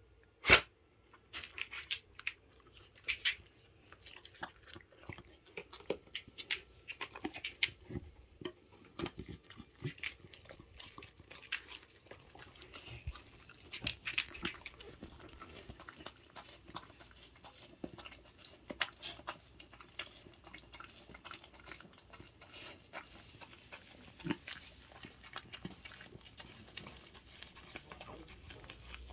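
A dog chewing and gnawing on a dried milk chew, with irregular crunching clicks throughout and one sharp loud click about half a second in.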